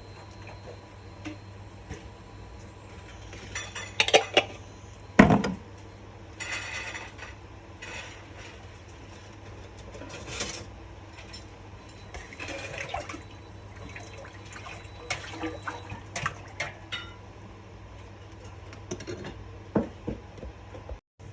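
Pots, pans and utensils clinking and knocking in a kitchen, with a few louder knocks about four to five seconds in, over a steady low hum.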